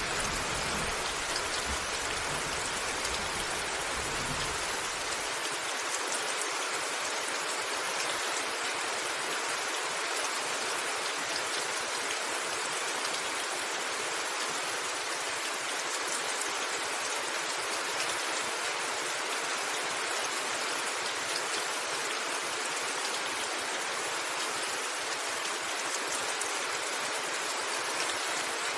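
Steady rain drumming on a rooftop, an even hiss with scattered drop ticks. The low rumble of a thunderclap dies away over the first few seconds.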